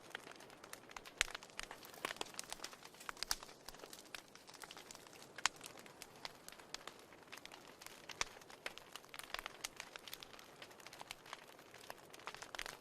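Wood fire in a fireplace crackling: irregular sharp pops and snaps over a soft hiss, the loudest a little over a second in and about five and a half seconds in.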